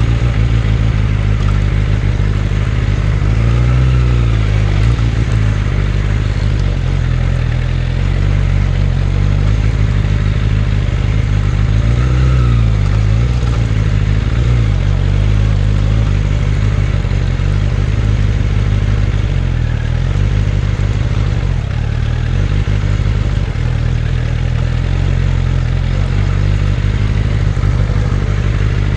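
Suzuki Bandit 600's inline-four engine running steadily under way, its note rising and falling twice, about four and about twelve seconds in.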